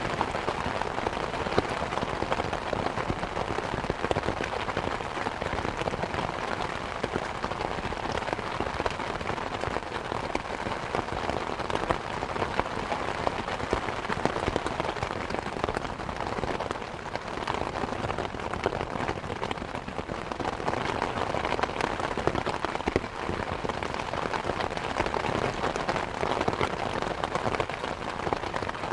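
Steady rain hiss with fireplace crackling mixed in: many small sharp pops and ticks scattered over the even sound of the rain.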